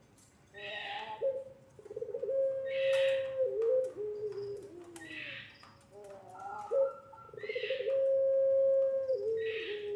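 Puter pelung dove cooing: two long, drawn-out coos, each held on one steady low note and then stepping down at the end, with shorter coo notes between them. Fainter high chirps from other birds come and go.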